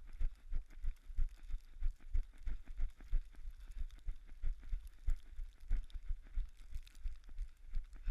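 Running footsteps in snow, about three strides a second, over a steady hiss.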